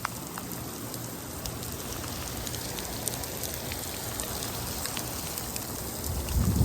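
Heavy rain pouring down, with many individual drops ticking close to the microphone. A low bump near the end.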